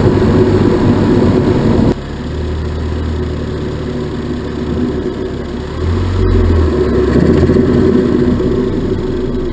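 Ford Focus ST Mk3's turbocharged 2.0 EcoBoost four-cylinder running at high revs, then a sudden lift off the throttle about two seconds in, where the turbo flutters as the boost is cut. The engine then runs lower before the revs rise again about six seconds in.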